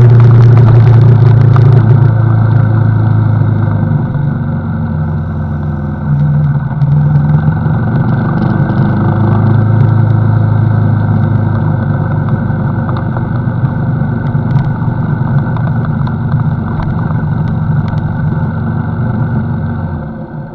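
CFMoto NK motorcycle engine running while riding, its note shifting up and down a few times and dropping away near the end.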